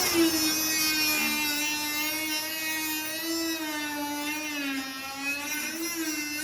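High-speed power cutting tool, a grinder or cut-off wheel, running with a steady high whine whose pitch sags and recovers as it is pressed into the cut, nipping an edge off sheet metal.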